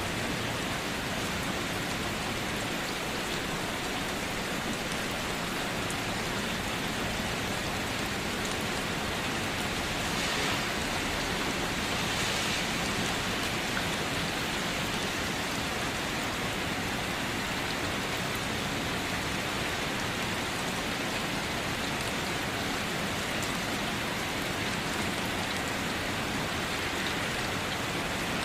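Steady rain falling and pattering on surfaces, an even hiss of drops with a slight swell about ten seconds in.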